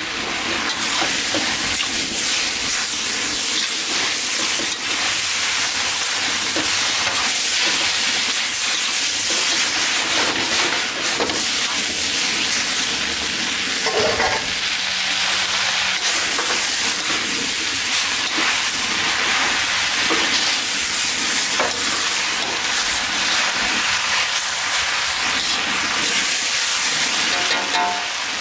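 Chow mein noodles sizzling in a hot seasoned wok as they are tossed and stirred with tongs: a steady, loud frying hiss.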